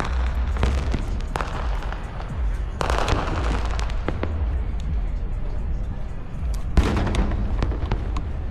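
Fireworks going off in quick succession: sharp bangs over a continuous deep rumble, with dense bursts of crackling about three seconds in and again near the end.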